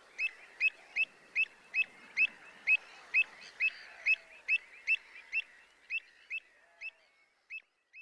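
A bird calling the same short, sharp, upward-flicking note over and over, a little over two a second, growing fainter and more spaced out near the end.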